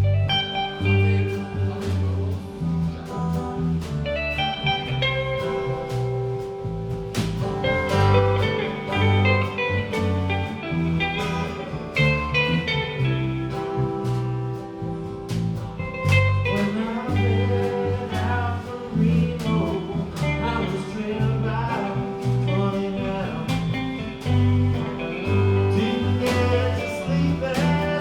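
Live band playing a blues-flavoured song: electric guitar over a walking bass line and drums.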